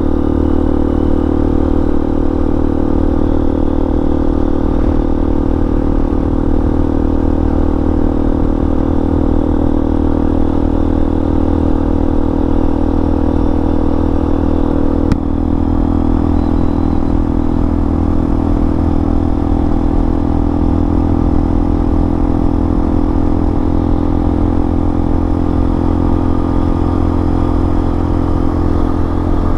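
Hawk 250 dual-sport's single-cylinder engine running steadily at cruising speed, heard from the rider's seat, with a slight shift in the engine note about halfway through.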